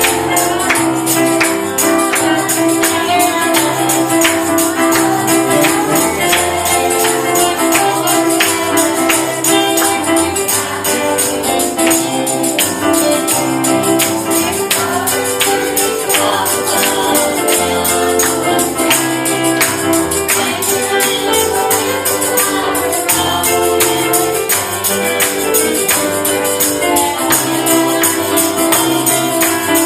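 Gospel music: voices singing over a steady, fast tambourine rhythm, with a bass line.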